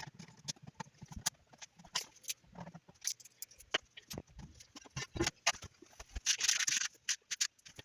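Irregular clicks and knocks from hands and tools working on 3D printer parts and screws during assembly, with a short rasping scrape about six and a half seconds in.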